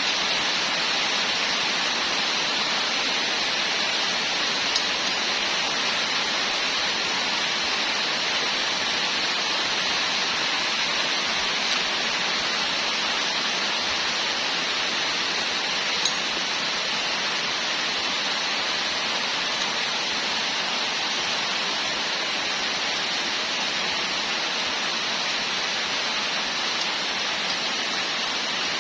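A steady, even rushing hiss with no change in level, and two or three faint ticks.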